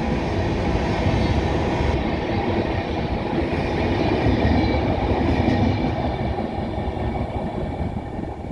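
Passenger train rolling past: a steady rumble and clatter of wheels on the rails, easing slightly near the end.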